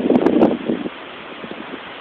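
Strong gusts of a windstorm buffeting the phone's microphone with uneven surges, dying down about a second in to a steadier, quieter rush of wind.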